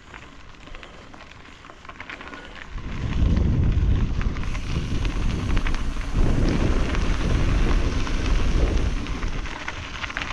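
Wind rumbling and buffeting on the microphone, rising suddenly about three seconds in and gusting unevenly, over a steady crackle.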